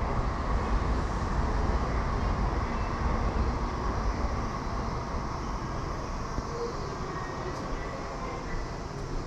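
Train rumbling past a station platform: a steady low rumble that slowly fades over the second half.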